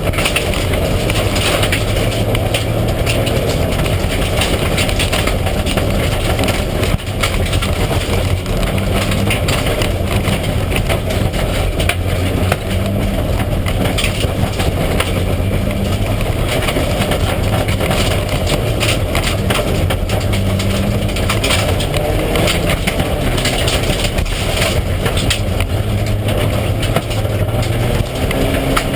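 Mitsubishi Lancer Evolution IX rally car's turbocharged four-cylinder engine running hard under load, its pitch stepping up and down as the revs change, over a steady wash of road and tyre noise with frequent knocks and rattles.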